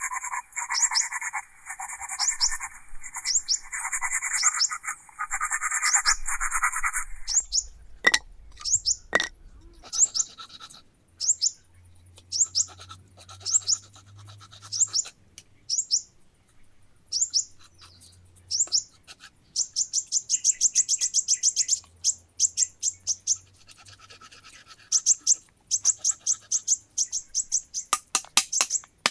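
Bird chirping: short, high, falling chirps repeated over and over, at times in quick runs. A loud rasping buzz runs through the first seven seconds and stops abruptly.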